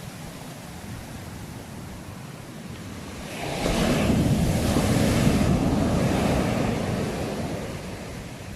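Sea waves: a low steady wash of surf, then, a little over three seconds in, a wave breaks with a sudden loud rush that slowly fades away over the next few seconds.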